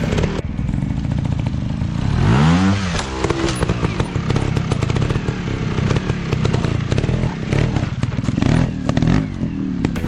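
Dirt bike engine running with a lot of rattling clicks, revving up and back down once about two to three seconds in.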